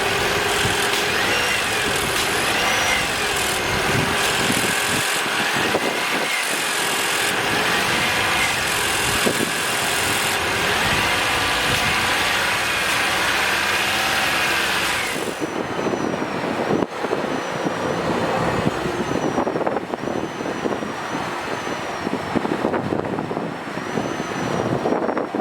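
2020 Toyota RAV4 Hybrid's 2.5-litre four-cylinder engine running, heard with a dense hiss of noise that thins out about fifteen seconds in.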